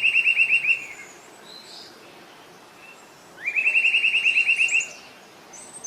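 Grey-hooded attila calling: a loud, rapid series of clear repeated notes, about nine a second, that rises at first and then holds level. One series trails off in the first second and another runs about a second and a half around the middle, with fainter bird notes behind.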